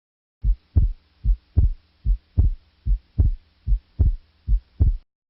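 Heartbeat sound effect: six lub-dub double thumps at about 80 beats a minute over a faint low hum, starting and stopping abruptly.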